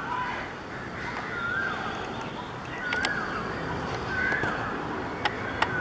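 A bird calling over and over: a short, clear call that rises and then falls, about every second and a half, with a few sharp clicks over a steady background rumble.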